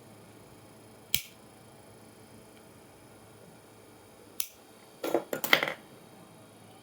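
Sharp clicks of hard objects being handled: one about a second in, another past the four-second mark, then a quick cluster of clicks and knocks a little after five seconds.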